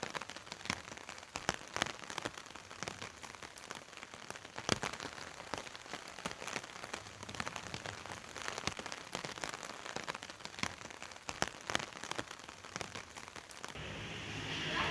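Steady rain falling, with many individual drops tapping sharply and irregularly on a hard surface close by. Near the end it gives way to a low, steady hum.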